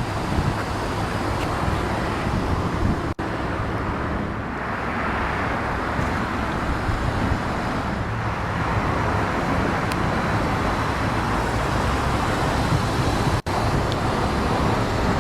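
Lamborghini Gallardo LP570-4 Superleggera's 5.2-litre V10 idling steadily, with a constant low hum. The sound cuts out for an instant twice, about three seconds in and near the end.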